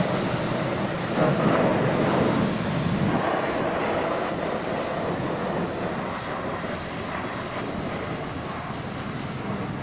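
Steady rushing noise of car-wash equipment running, a little louder in the first few seconds and then easing slightly.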